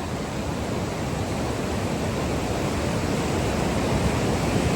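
River whitewater rapids rushing, a dense steady wash of water noise that grows slightly louder.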